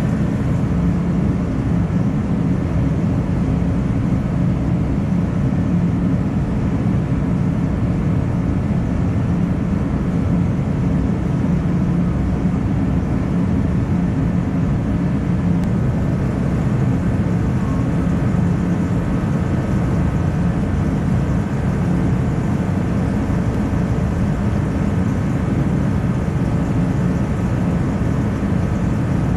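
A steady, loud mechanical drone, like an engine or motor running without change.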